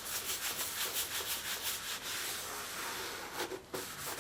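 Rubbing on the bare sheet-steel tractor fender, in quick back-and-forth strokes several times a second, turning steadier later and breaking off briefly near the end.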